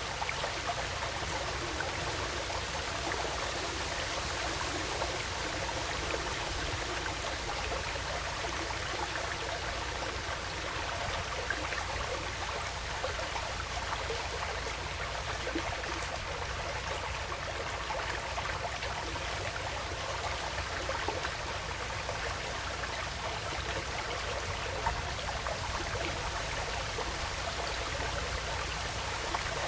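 Woodland stream flowing steadily, with many small splashes and drips through the even rush of water.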